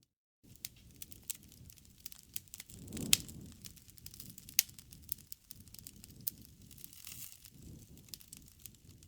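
Campfire crackling: irregular sharp pops of burning wood over a low rumble of flame, cutting in after a moment of silence, with the loudest pop about three seconds in.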